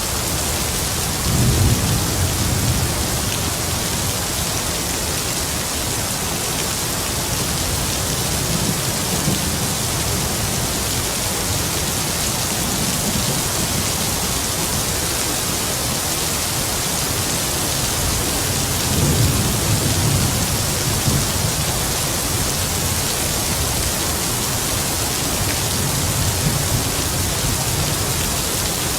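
Heavy rain falling with a steady hiss, with distant thunder rumbling low twice, near the start and again about two-thirds of the way through, and fainter rumbles between.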